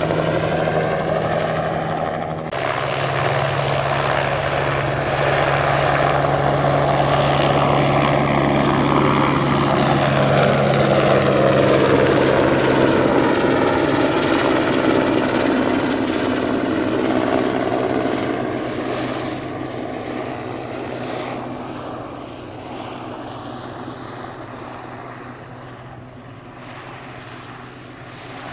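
Single-turbine crop-spraying helicopter flying past low, with steady rotor beat and turbine noise. The pitch drops as it goes by and the sound fades as it moves away.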